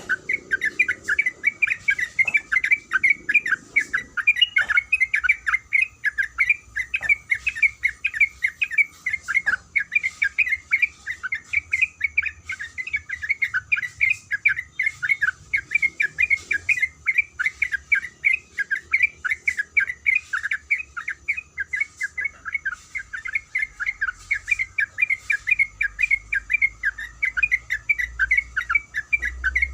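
Trucukan (yellow-vented bulbul) calling in a long unbroken run of quick chattering notes, several a second, without pause.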